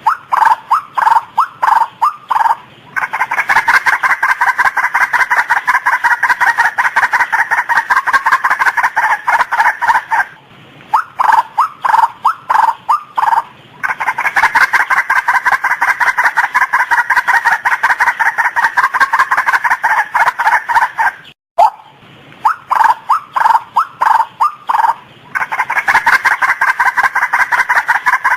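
Female white-breasted waterhen calling: loud repeated notes that start as separate calls and run into a fast, steady series lasting several seconds. The phrase comes round again about every eleven seconds.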